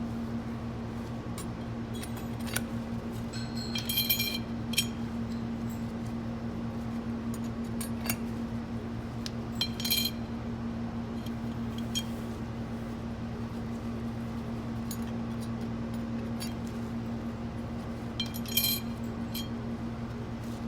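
Steel and friction clutch plates clinking lightly as they are stacked one by one into an automatic transmission's clutch pack: a few sharp metallic clinks, the clearest about 4, 10 and 19 seconds in, over a steady low hum.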